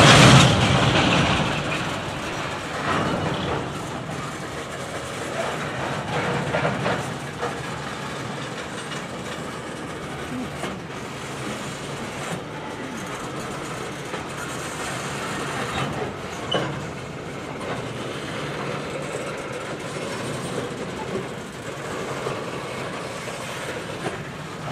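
Coal gondolas of a long freight train rolling past: a steady rumble of steel wheels on rail, with clickety-clack and scattered knocks. It opens with a sudden loud rush that fades over a second or two.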